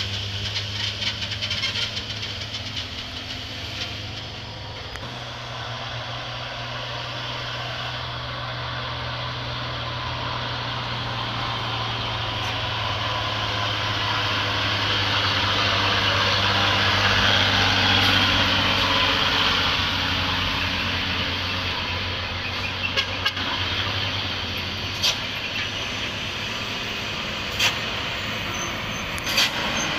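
Overloaded dump truck crawling down a steep descent, its engine running low and steady under loud, screeching brakes. The brake noise swells to its loudest a little past the middle, and several short sharp sounds follow near the end.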